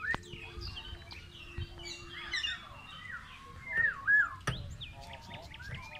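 Several small birds chirping and whistling at once, with many short overlapping calls. The loudest is a wavy up-and-down whistle a little under four seconds in. A sharp click comes about four and a half seconds in.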